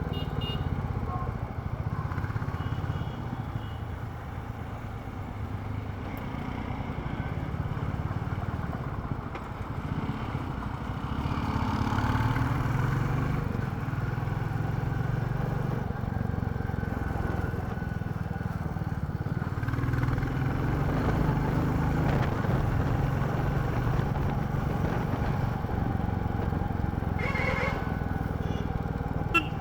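Royal Enfield Classic 350's single-cylinder engine running under way on the road, its low beat rising and falling with the throttle, as heard by the rider. A brief higher tone sounds about two seconds before the end.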